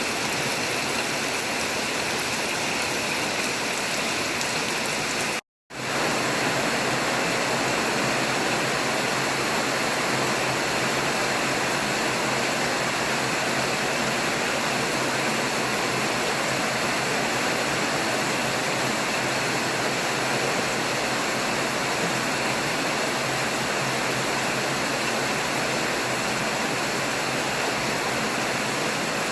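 Heavy rain falling in a steady, dense hiss. It cuts out for a split second about five and a half seconds in.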